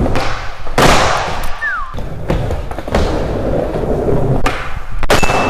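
Skateboard slapping and clacking on a hard skatepark floor during flip-trick attempts: about five sharp impacts, with wheels rolling between them and a short falling squeak near two seconds in.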